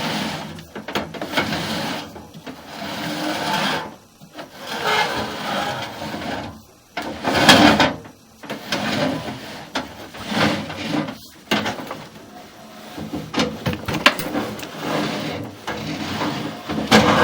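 A push rod being fed up a dryer vent duct, scraping and rubbing against the duct walls in irregular strokes about a second or two long, with a few sharp knocks.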